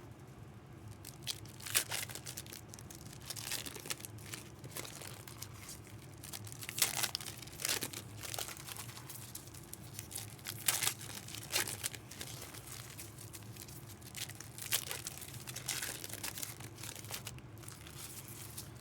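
Foil trading-card pack wrappers crinkling and tearing as packs are handled and opened, in irregular crackles every second or so.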